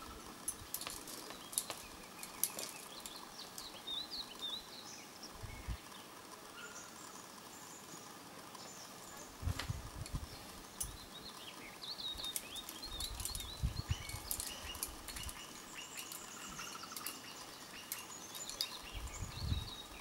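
Birds chirping and calling in many short, repeated notes, with scattered sharp clicks and a few brief low rumbles.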